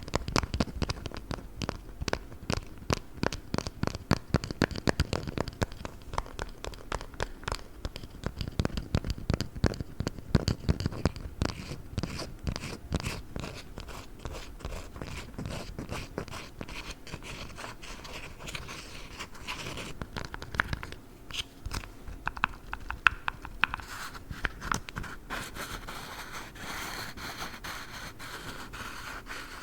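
Close-miked hands scratching, tapping and squeezing squishy dumpling toys: a fast, uneven run of small sharp clicks and scrapes that turns into softer rubbing near the end.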